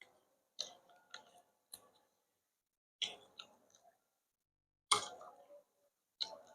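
Close-miked eating sounds of a person chewing food, in about eight short separate bites and chews with silence between them. The loudest comes about five seconds in.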